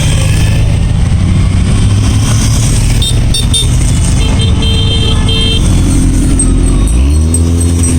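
Motorcycles riding past in a procession, engines running loudly, with several short horn toots a few seconds in. An engine revs up, its pitch rising, near the end.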